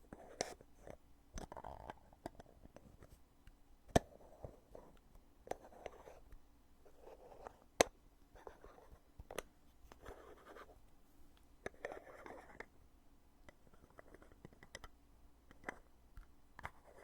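Heavy lid of a cosmetic foundation container being handled, opened and closed repeatedly. Short rubbing, scraping sounds come about once a second, with sharp clicks between them; two clicks, one about four seconds in and one near the middle, are the loudest.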